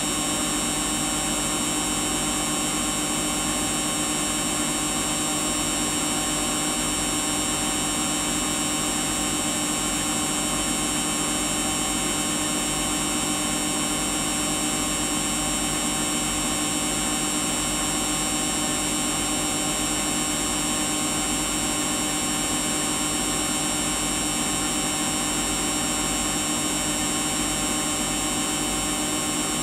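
Samsung washing machine running a Daily Wash cycle, its drum turning continuously with a steady motor whine: a high thin tone over a lower hum and whooshing, holding even without pause or change in speed.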